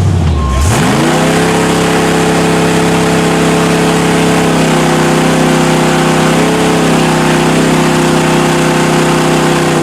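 Mud truck's engine revving up sharply about a second in, then held at high, steady revs.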